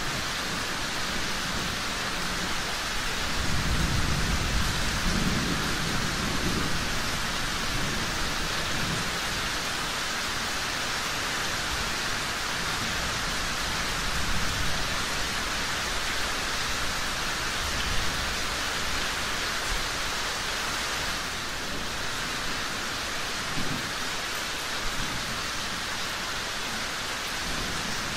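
Steady heavy rain falling, an even hiss throughout, with a low rumble of thunder swelling a few seconds in and fading out.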